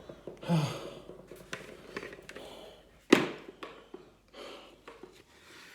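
Scattered taps and shuffling in a small room, with one sharp, loud knock about three seconds in. A heavy exhale about half a second in.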